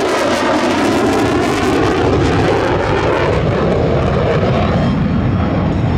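Airplane flying overhead, its engine a loud, steady roar.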